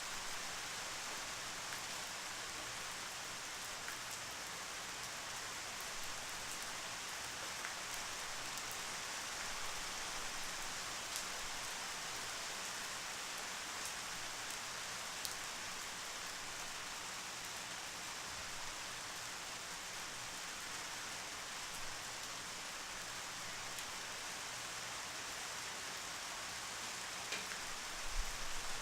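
Steady rain falling on surfaces, an even hiss with scattered drop ticks, and a few soft low thumps near the end.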